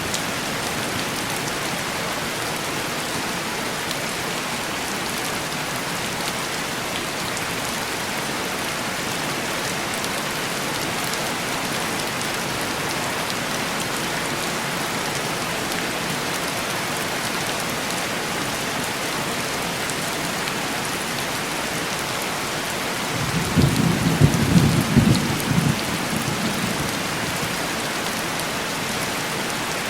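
Heavy rain falling steadily on a window, a constant dense hiss. About three-quarters of the way in, a roll of thunder rumbles low for about three seconds with a few sharper peaks, then fades back under the rain.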